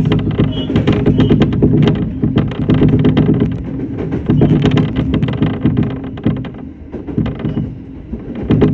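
Running noise inside a Shinano Railway SR1 series electric train under way: a steady low hum from the running gear, with a dense clatter of wheels and rattles that swells and eases a little.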